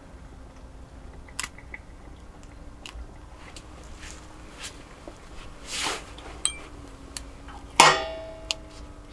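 Scattered small clicks and knocks, with a short rustle about six seconds in and one louder sharp clink near the end that rings briefly, over a faint steady hum.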